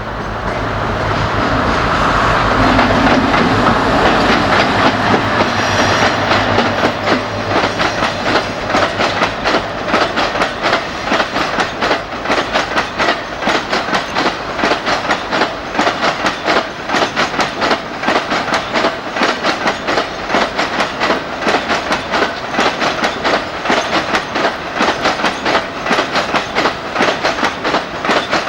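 A BR Class 60 diesel locomotive passes with its Mirrlees engine running, then a long rake of freight wagons follows, its wheels clattering rapidly and evenly over the rail joints.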